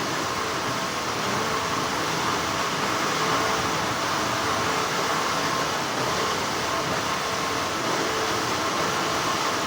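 Continuous hum of textile factory machinery, an even whirring noise with faint steady tones in it.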